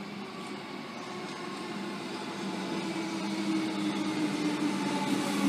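Comeng electric suburban train approaching along the platform, a steady hum with rail rumble that grows louder as it nears.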